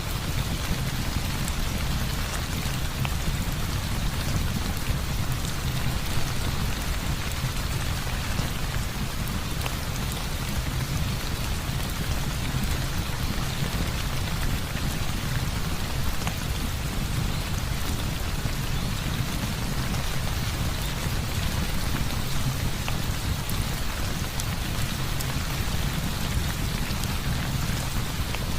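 Heavy rain falling steadily, with a deep steady rumble underneath and faint scattered ticks.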